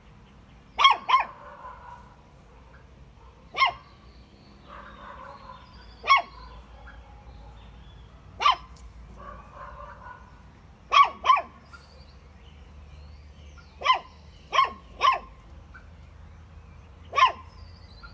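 A young puppy's first barks: short, high-pitched yips, about eleven in all, coming singly or in quick pairs every couple of seconds.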